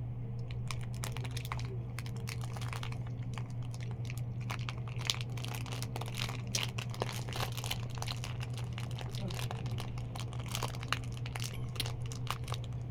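Balut eggshell being cracked and peeled by hand: a run of many small, sharp crackles and crinkles, over a steady low hum.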